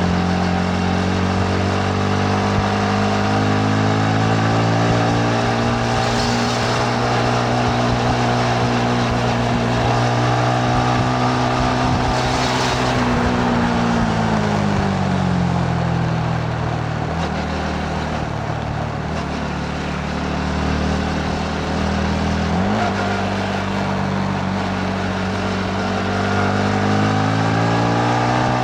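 Yamaha MT-15's 155 cc single-cylinder engine running under way with wind rushing past. The revs fall off around the middle, jump back up suddenly a little after two-thirds of the way through, and rise again near the end.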